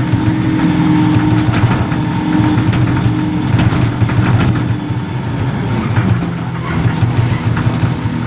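Reach stacker's diesel engine running steadily, its pitch dropping a little about six seconds in, with scattered light clanks and knocks over it.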